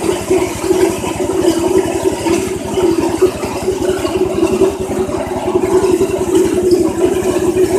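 Soybean dehulling machine running steadily, its motor giving a fast, even pulsing hum with a rattle over it.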